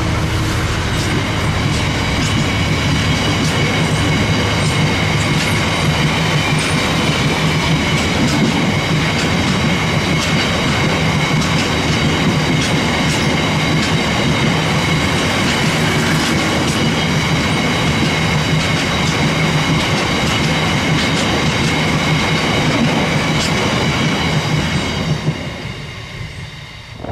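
Freight train wagons rolling past close by: a steady heavy rumble and rattle, with scattered clicks over rail joints and a steady high-pitched ringing from the wheels. The noise falls away near the end as the last wagons pass.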